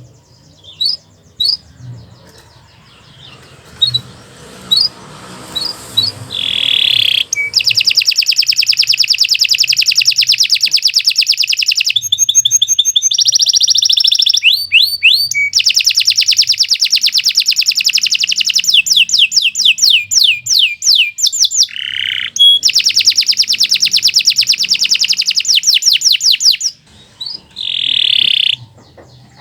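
Domestic canary singing: a few short separate chirps at first, then long, fast trills and rolls of rapidly repeated high notes, with brief breaks between phrases and some quick falling sweeps.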